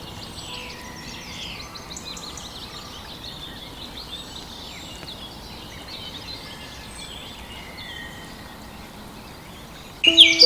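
Many small birds chirping and twittering together in a steady, busy background chorus. Near the end, a much louder sound starts suddenly, with sustained tones and loud chirping calls.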